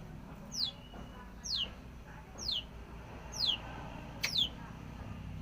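Long-tailed shrike (cendet) calling: a sharp, high note sliding downward, repeated about once a second.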